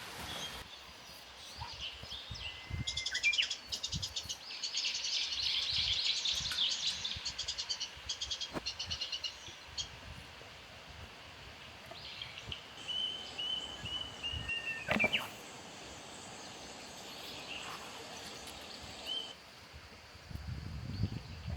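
Small birds chirping and calling: a burst of rapid high chirps in the first third, then a held high whistle that breaks off about two-thirds of the way through.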